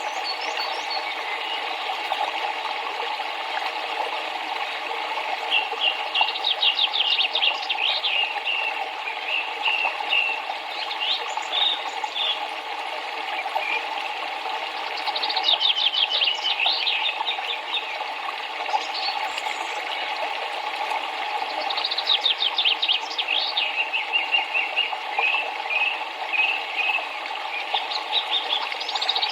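A songbird singing short phrases, each a rapid trill of high notes followed by a few separate chirps, repeated about every seven or eight seconds over the steady rush of flowing river water.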